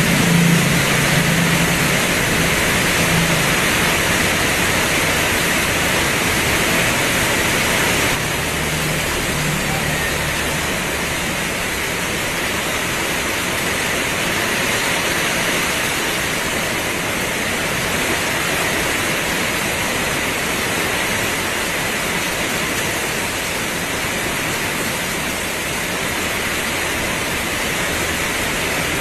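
Heavy rain pouring steadily, an even, dense hiss, with a faint low hum in the first few seconds.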